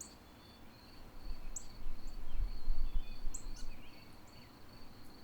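Birds chirping in short, high, quick notes several times, over a steady thin high-pitched whine. A low rumble swells up between about one and a half and three and a half seconds in.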